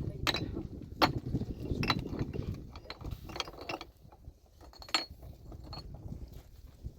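Hard, sharp clinks and knocks of stone or metal tools against rock, about five strikes spaced irregularly around a second apart, a few with a short bright ring, over a low rumble.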